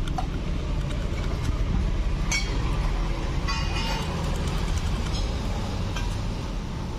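Small screwdriver scraping and clicking on the electrical contacts of a car seat switch, cleaning off carbon burn spots left by arcing. A few short scratchy clicks come about two and three and a half seconds in, over a steady low hum.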